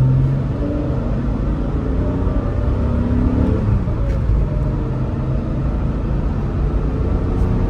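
Porsche 993 Carrera 4's air-cooled flat-six running on the move, heard from inside the cabin with the windows up, over a steady low road rumble. The engine note rises in pitch briefly a couple of times as the car pulls.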